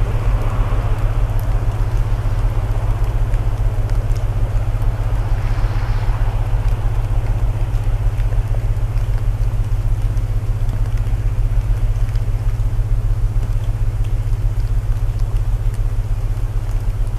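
Layered sleep soundtrack: a steady low hum of binaural tones under the even hiss of rain, with a few faint crackles of burning wood from a fireplace.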